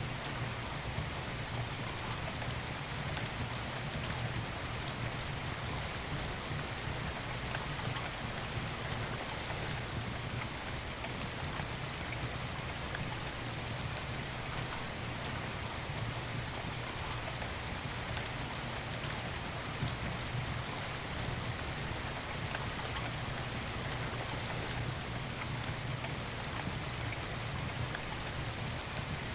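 Steady rain falling: an even hiss with a few faint scattered ticks.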